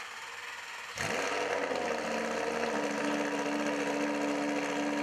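Lamborghini Gallardo Superleggera V10 with an opened-up aftermarket exhaust. A quieter whirring first second, then about a second in the engine fires, its pitch sweeping up before it settles into a steady, loud idle.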